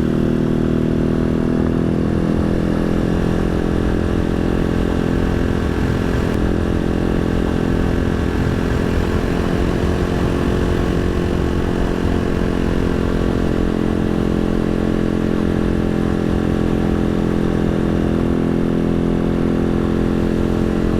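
Janus Halcyon 250's single-cylinder engine running steadily under way while riding, its pitch picking up a little in the first second or two and then holding even.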